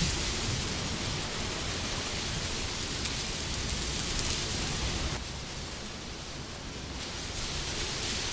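Wind blowing as a steady rushing noise that eases off about five seconds in and swells again near the end.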